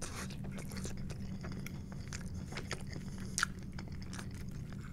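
A person chewing a mouthful of loaded tater tots, with many small irregular crunches and mouth clicks.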